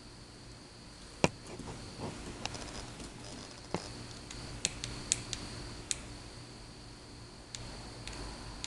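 Scattered clicks and knocks of gear being handled, the sharpest about a second in, over a steady faint high-pitched whine.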